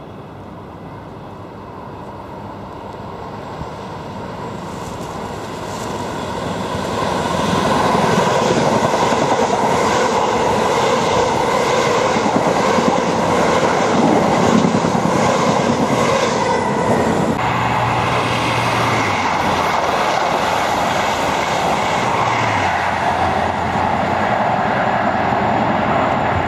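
A multi-car passenger train approaching and passing through the station at speed. The noise builds over the first several seconds and then stays loud while the carriages go by.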